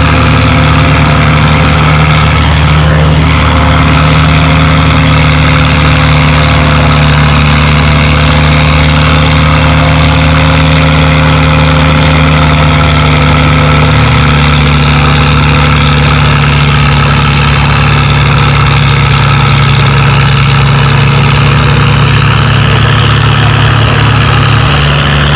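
Antique farm tractor engine running steadily under load while pulling a weight-transfer sled.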